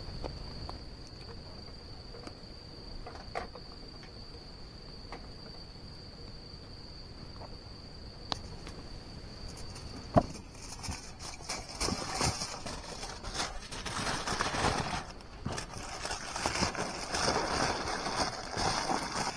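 A steady high insect trill, typical of an autumn cricket, with a few faint ticks. About ten seconds in a sharp click cuts in, followed by dense, irregular rustling and crackling that is the loudest sound to the end.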